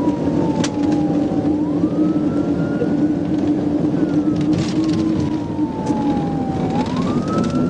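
Police cruiser siren in wail mode: a tone that slides slowly down, then sweeps back up, about twice, over a steady drone of engine and road noise from the car at pursuit speed.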